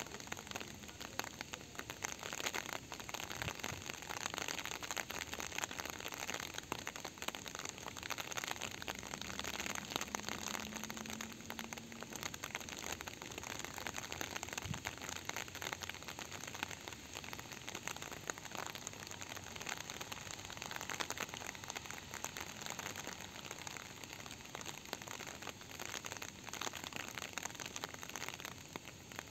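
Rain falling steadily, with many separate drops ticking close to the microphone.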